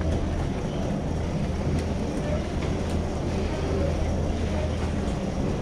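Steady low hum under a general noisy ambience with faint distant voices; the hum fades out about five seconds in.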